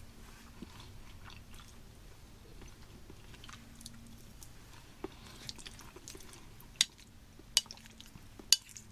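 Faint chewing of a mouthful of MRE minestrone, with a few short, sharp mouth clicks in the second half, three of them louder near the end.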